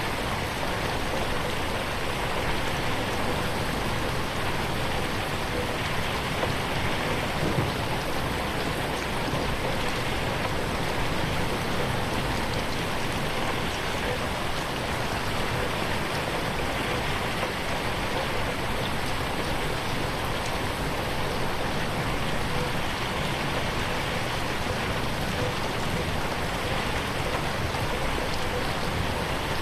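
Steady rain falling on a window pane: an even, unbroken hiss of drops with no thunder.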